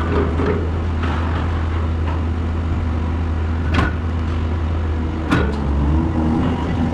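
Diesel engine of a truck-mounted grapple crane running steadily with a low drone, with sharp clanks of the claw or its load about four seconds in and again a second and a half later.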